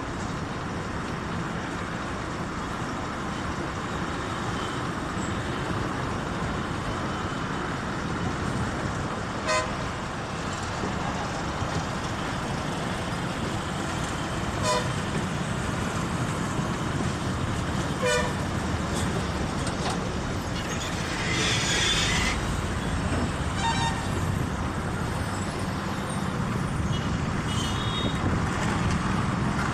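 Steady highway traffic noise, with several short vehicle horn toots spaced a few seconds apart; the loudest comes about two-thirds of the way in.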